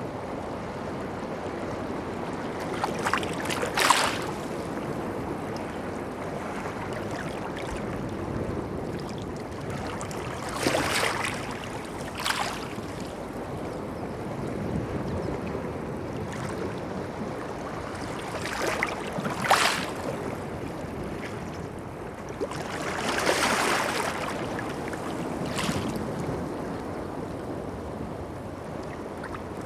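Sea water washing and lapping steadily, broken by sharp splashes every few seconds, the loudest about four seconds in and near the middle.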